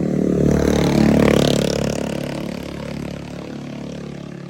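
Motorcycle engine running, growing louder about a second in and then slowly fading.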